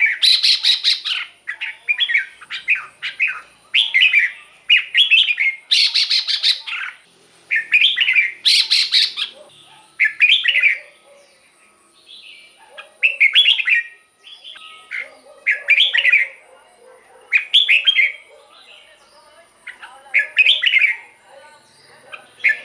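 Red-whiskered bulbul singing short, bright warbling phrases, one every second or two, with the gaps growing longer in the second half. Three louder, harsher rattling bursts come in the first half.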